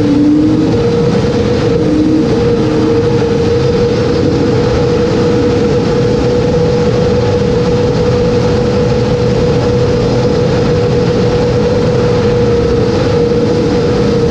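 Racing jet boat engine running hard at steady high revs, one constant pitch held throughout over a loud rushing noise.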